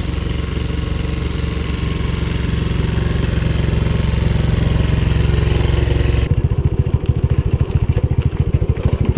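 Old motorbike engine running steadily just after starting up; about six seconds in the sound changes abruptly to a lower, pulsing idle.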